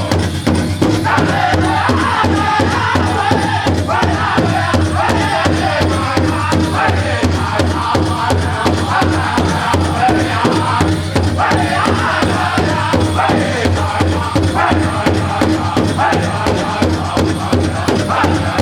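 Powwow drum group singing a chicken dance song: a chorus of high, chanted voices over a steady, fast beat on a big drum.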